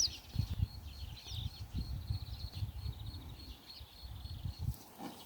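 Insects chirring steadily in the grass, a fine pulsing high note, with a few short bird chirps, one right at the start and another about a second in, over a low rumbling noise.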